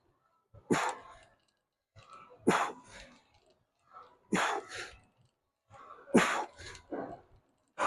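A man breathing out hard in short, sharp bursts, about one every two seconds, in time with the reps of a leg-day lifting set.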